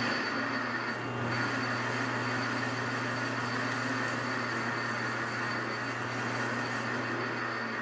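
Metal lathe running steadily, turning an aluminium workpiece, with a constant low hum under an even hiss.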